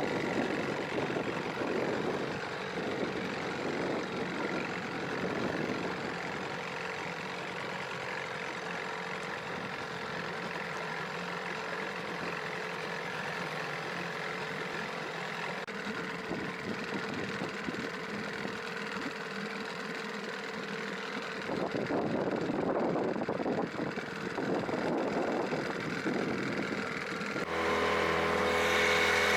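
Boat motor running steadily under way.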